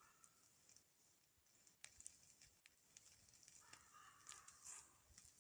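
Near silence, with faint scattered crackles from the glowing cooking coals and a faint far-off animal call about four seconds in.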